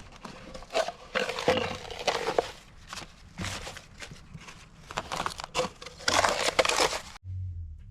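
Irregular crinkling and crunching noises in uneven bursts, cutting off abruptly near the end.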